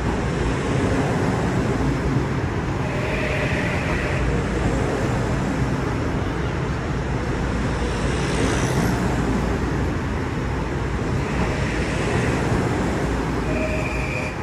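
Electric commuter train rolling past, a steady heavy rumble with a few faint, brief squeals.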